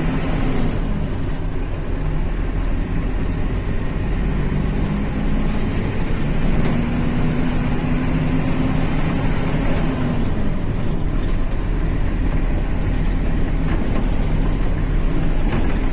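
Motor vehicle driving on a dirt road: steady engine note and heavy low rumble of tyres and body. The engine pitch climbs gradually in the middle and drops away again.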